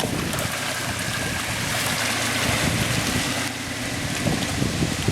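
Off-road SUV driving through deep water, its engine running steadily under a continuous wash of water churning and splashing.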